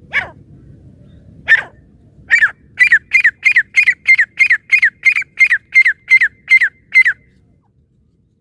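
Francolin (teetar) calling: two single sharp calls a little over a second apart, then a rapid run of about thirteen loud, shrill, downslurred calls at nearly three a second that stops near the end.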